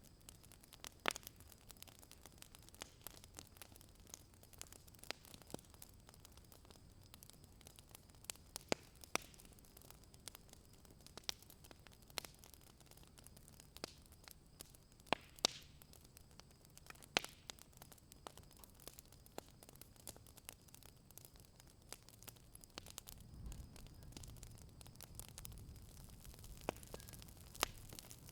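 Faint campfire crackling: irregular sharp pops and snaps, a few of them louder, over a low steady hiss.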